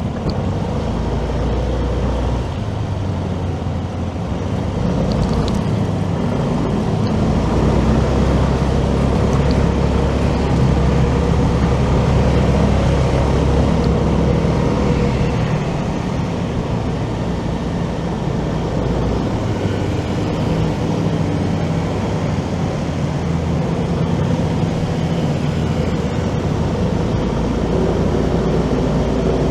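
Motorcycle running at road speed through city traffic, with a steady low rumble and hum that swells for several seconds in the middle.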